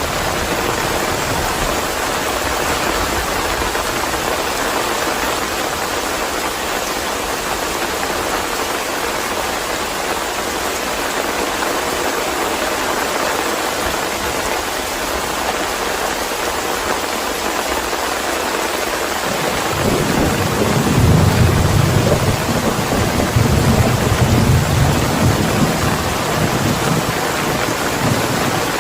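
Steady rain falling in a continuous hiss. A low rumble of thunder rolls in about two-thirds of the way through, swells, and then eases off near the end.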